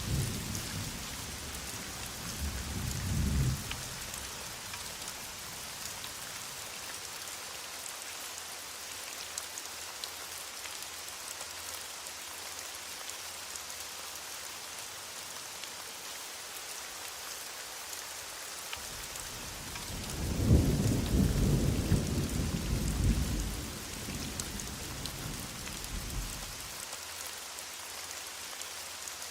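Heavy rain falling steadily, with low rumbles of thunder: one fading in the first few seconds and a louder, longer roll starting just before the twenty-second mark and dying away over about eight seconds.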